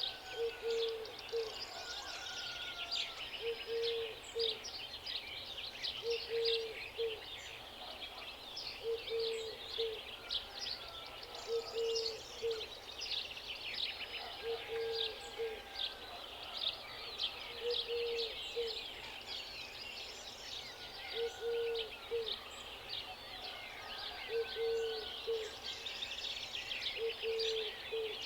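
Birdsong chorus: many small birds chirping and trilling at once, with a low two-note hooting call repeated about every three seconds.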